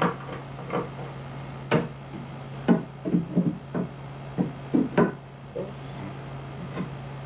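A series of irregular wooden knocks and clunks, about a dozen, the busiest stretch in the middle, as boards and parts are handled and set down. A steady low hum runs underneath.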